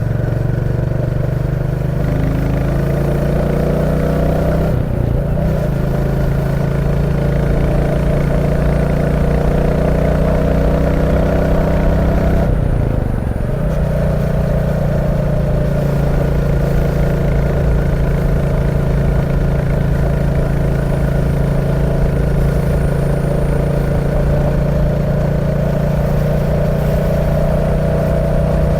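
Royal Enfield Classic 350's single-cylinder engine under way, pitch rising as it pulls, with two brief gear shifts about five seconds and about thirteen seconds in, then running steadily at cruise.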